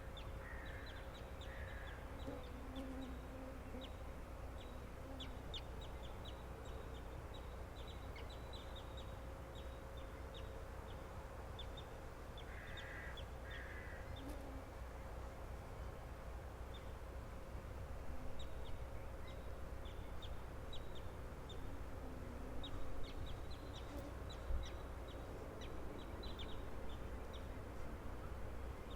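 Shore birds calling, with short calls at the start and again around a third of the way in, over many quick high chirps and a steady low background rush.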